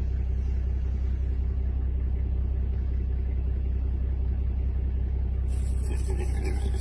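A vehicle engine idling: a steady low rumble with an even hum above it. About five and a half seconds in, a brighter hiss joins it.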